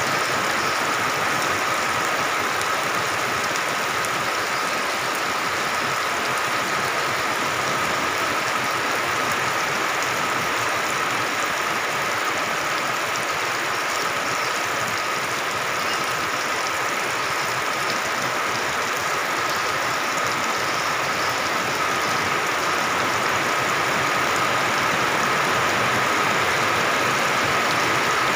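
Heavy rain pouring down steadily: a dense, even hiss, with a faint steady tone running through it.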